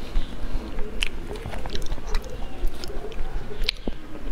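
Chewing and biting into soft durian flesh: mouth sounds with scattered sharp clicks, the clearest about a second in and again near the end.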